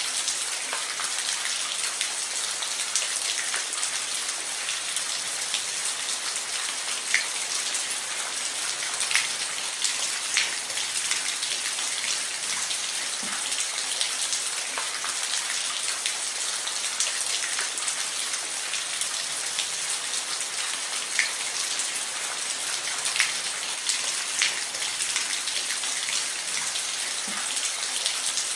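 Steady rain falling on a roof: a constant high hiss with louder single drops ticking here and there.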